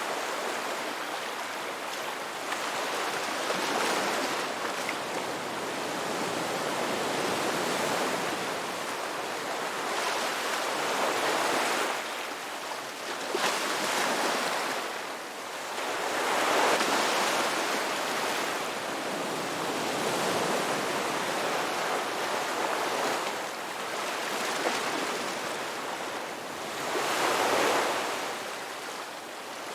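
Ocean surf: waves breaking and washing up a beach in a continuous hiss, swelling and easing every few seconds, with the biggest surges about two-thirds of the way through and near the end.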